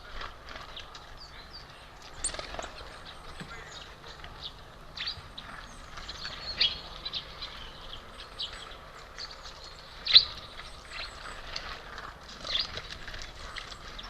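Small birds chirping and calling around a bird feeder: many short, sharp high calls scattered irregularly, with one louder call about ten seconds in.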